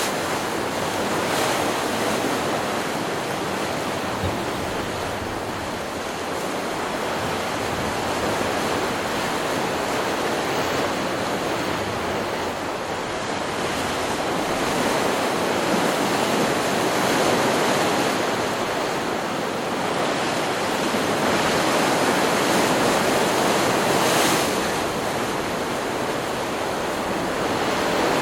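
Ocean surf from a stock beach-sound recording: a continuous wash of breaking waves that swells slowly louder and softer, with no other sounds standing out.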